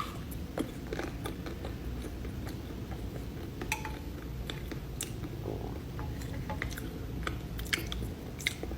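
A person chewing a soft pastry dessert close to the microphone, with scattered small mouth clicks.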